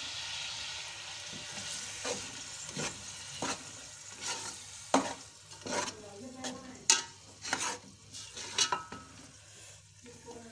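Chicken, tomato purée and spices sizzling in a hot metal pot while a spoon stirs them, the spoon knocking and scraping against the pot at irregular intervals. The sizzle is strongest at first.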